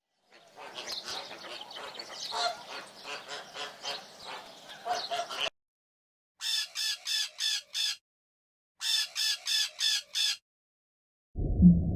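Birds calling: a busy flock chatter, then two runs of about six quick repeated calls, roughly four a second. A loud, low, muffled sound cuts in near the end.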